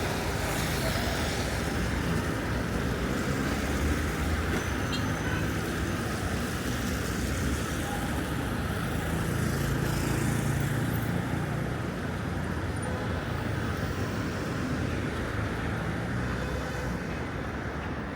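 Steady road traffic noise: a continuous hum of passing vehicles, with a low rumble swelling a little around the middle.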